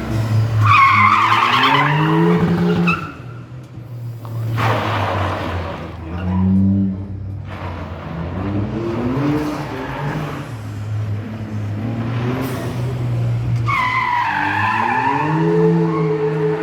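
Rally car engine revving up and down hard, with tyres squealing through two sideways slides, one near the start and one near the end. A short rushing noise about four and a half seconds in.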